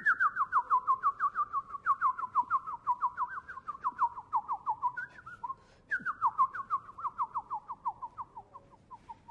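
A bird call: a fast run of short whistled notes, each sliding downward, about five a second, the whole series drifting lower in pitch. It comes in two runs, the second starting after a short break about six seconds in and fading toward the end.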